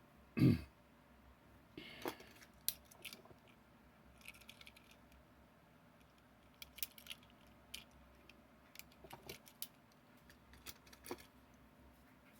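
A dull thump about half a second in, then scattered light clicks and taps of diecast toy trucks and their small plastic cases being handled.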